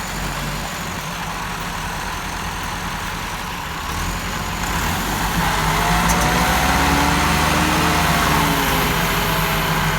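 Tractor engine running hard under load, growing louder about halfway through as the engine note rises and then falls again.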